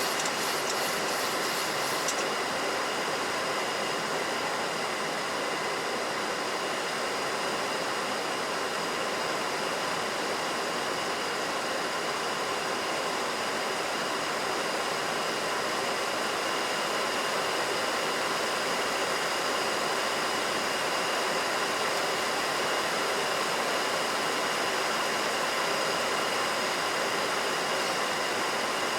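Steady rush of airflow and engine noise in a Boeing 737NG cockpit on approach, with a few faint steady tones running through it. A rapid series of short high ticks sounds for the first two seconds.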